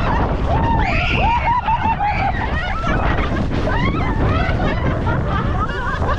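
Several people shouting, calling out and laughing over the steady rumble of a boat's motor, with wind buffeting the microphone.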